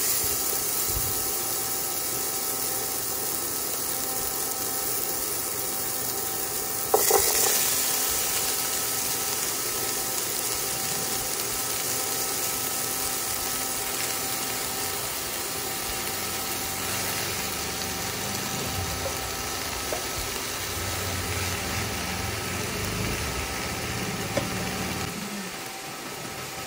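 Chopped onion, garlic and tomato sizzling in oil in a stainless steel pan, a steady hiss. About seven seconds in a sharp knock rings out and the sizzling grows brighter; later, cut pechay leaves rustle as they are piled into the pan.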